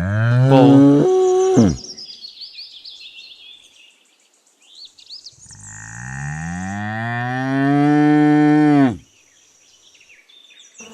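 A bull mooing twice in long, low calls, the second lasting about three seconds and rising then falling in pitch. Faint high chirping sounds in the background between the calls.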